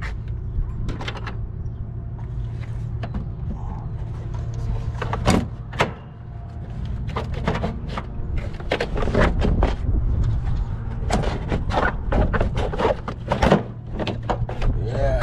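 Hand tools and metal parts clicking and knocking irregularly, with a louder knock about five seconds in, over a steady low hum.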